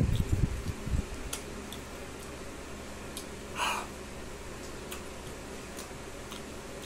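Close mouth sounds of a man chewing sticky rice cake: low chewing thumps in the first second, then faint wet clicks and one short smack about three and a half seconds in, over a steady low hum.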